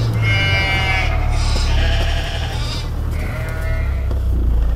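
A Land Rover Defender's engine runs low and steady. Over it come three loud, high, drawn-out wailing tones of about a second each, slightly falling in pitch, whose source cannot be told.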